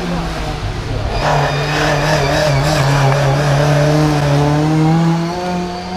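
Rally car engine heard from inside the car at full throttle, its pitch climbing steadily for about four seconds, then easing off near the end.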